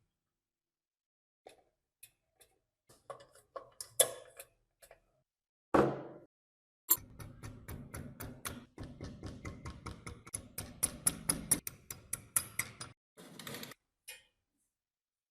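Scattered light metallic clicks and taps, and a heavier knock about six seconds in. Then a rapid, even ticking over a low hum for about six seconds, which stops suddenly and is followed by a brief rush of noise.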